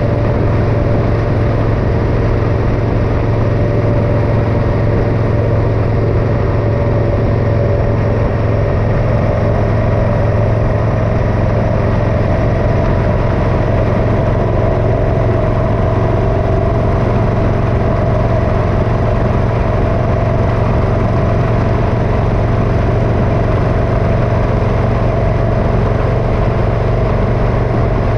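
Motorcycle engine running steadily while riding, with road and wind noise; the engine note rises slightly about nine seconds in.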